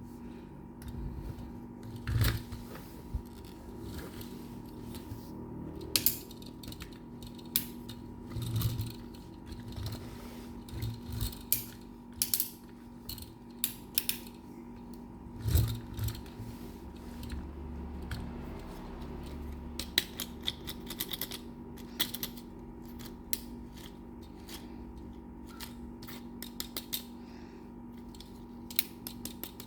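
Irregular clicks, taps and light knocks of small die-cast toy trucks being handled and moved about, some in quick runs of several, over a steady faint hum.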